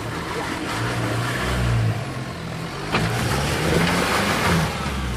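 Jeep Wrangler JK engine revving under load as it works up a rock climb, the pitch rising and falling with the throttle. About three seconds in it gets suddenly louder, with a harsher grinding noise over the engine for a second or so.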